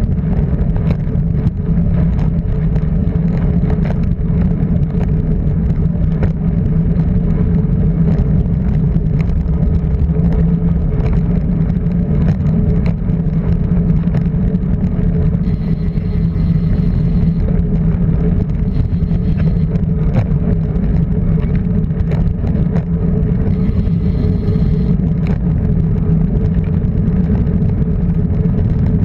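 A car engine running at a steady speed while driving, a constant drone with road noise and no change in pitch.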